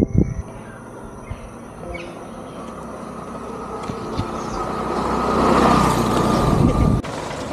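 A motor vehicle drawing closer, its engine and road noise growing steadily louder with a steady whine, then cut off abruptly about seven seconds in.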